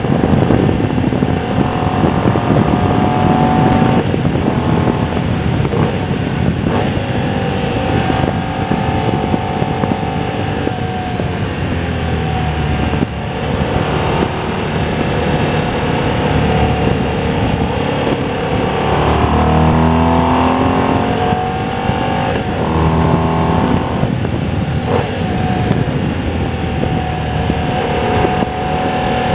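Moto Guzzi Bellagio's transverse V-twin engine running under way, its pitch falling and rising several times with throttle and gear changes, most clearly about twenty seconds in.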